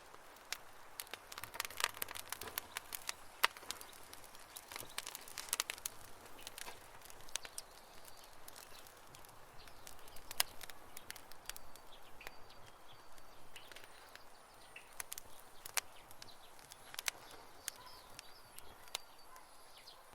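Wood campfire crackling, with irregular sharp snaps and pops over a soft hiss of burning; the snapping is thickest in the first few seconds.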